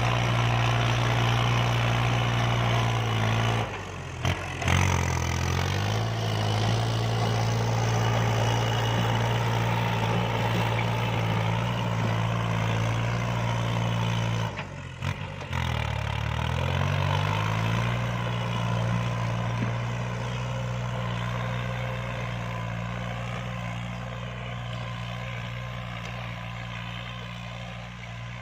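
Kubota L3218 diesel tractor engine running steadily under load while pulling a rotary tiller. Its engine speed dips sharply twice and picks back up, and the sound slowly fades over the last several seconds.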